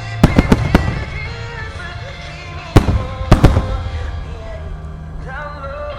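Fireworks shells bursting in sharp booms, a quick cluster of four in the first second and three more about three seconds in, over a music soundtrack playing through loudspeakers.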